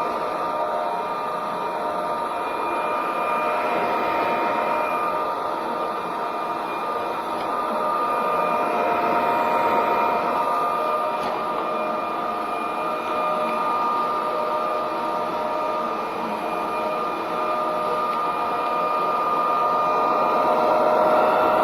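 Roborock Dyad Pro wet-and-dry cordless floor vacuum running steadily in auto mode: a motor whine with several constant tones over a rushing hiss, the level swelling and easing slightly.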